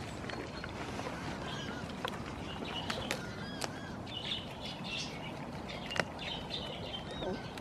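Small birds chirping in quick, short calls throughout, with a few sharp clicks about three and six seconds in.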